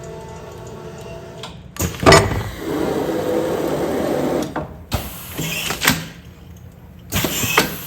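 Commercial food-container sealing machine running its cycle: a sharp clunk about two seconds in, a couple of seconds of steady motor running, then further knocks as the cycle finishes.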